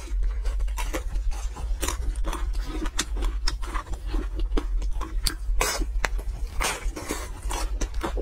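A person biting and chewing a crisp fried pastry, with many irregular crunches, over a steady low hum.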